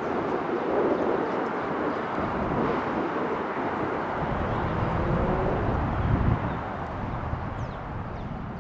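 Boeing 747-8I's four GEnx-2B turbofan engines at takeoff power, a deep rumbling roar from the departing airliner that fades over the last few seconds as it climbs away.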